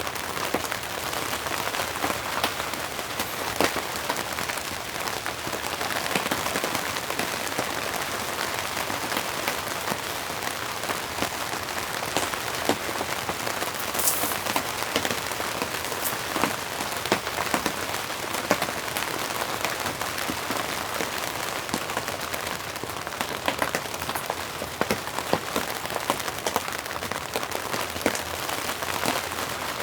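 Steady rain falling, with many individual drops striking close by as short sharp taps over the constant hiss.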